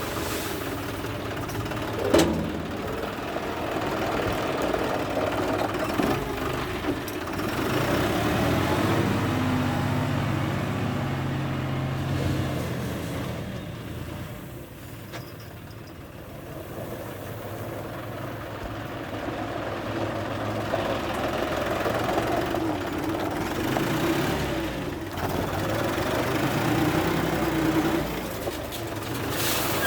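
John Deere 5210 tractor's three-cylinder diesel engine running, its revs and load rising and falling as it works, with a sharp knock about two seconds in and a quieter, lower stretch around the middle.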